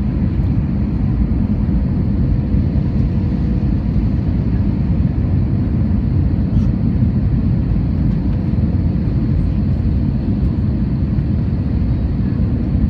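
Airbus A321 airliner on its landing approach: a steady low jet-engine rumble with a faint steady tone.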